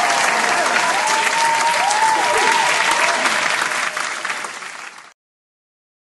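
Stock sound effect of an audience clapping: dense applause from a crowd that thins out and fades away, ending about five seconds in.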